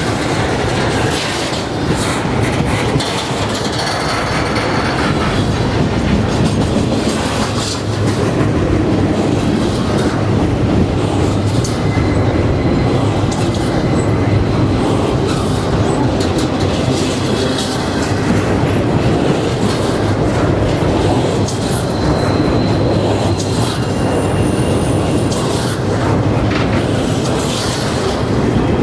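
Norfolk Southern freight cars rolling past close by, with steady clickety-clack of wheels over rail joints and brief high wheel squeals a few times.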